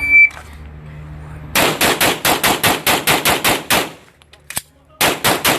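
A shot timer beeps once, then a pistol fires a fast string of about a dozen shots, roughly five a second. After a short pause with a small click as the empty gun is reloaded, four more quick shots follow.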